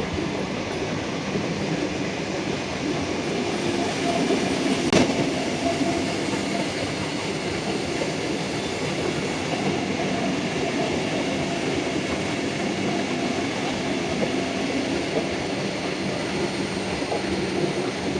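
A train running along the rails with a steady rolling rumble and rattle of wheels and coaches. One sharp knock comes about five seconds in.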